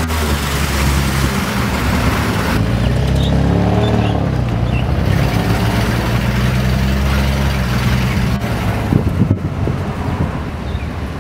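Car engine running, revving up and dropping back about four seconds in, with a couple of sharp knocks near nine seconds.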